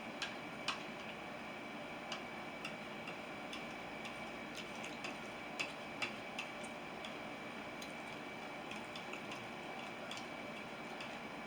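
Close-up eating sounds: irregular soft clicks and wet smacks of a mouth chewing food, over a faint steady high tone.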